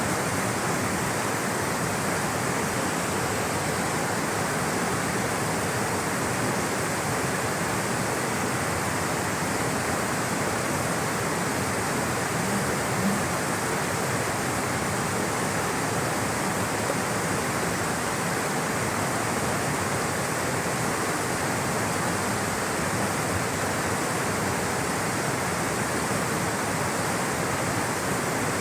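Rushing water flowing steadily, a dense even hiss with no change in level.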